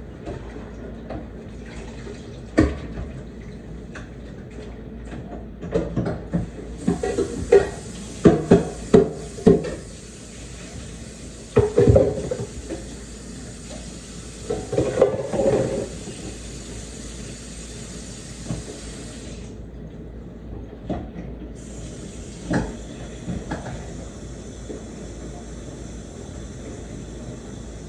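Kitchen faucet running into a sink, with a cluster of loud clattering knocks in the first half. The water shuts off for about two seconds and then comes back on.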